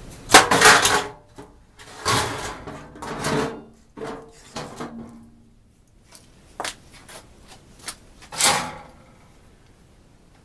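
Washable plastic furnace filter scraping and rubbing against the furnace's sheet-metal housing as it is bent and slid into its slot. Several rough scraping bursts, with a few light clicks and knocks.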